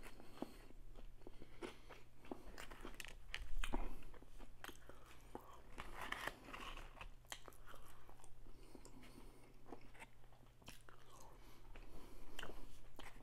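Close-miked chewing: a person eating a crispy fried chicken sandwich with onion rings, with soft crunches and wet mouth smacks at an irregular pace, a little louder about three and a half seconds in.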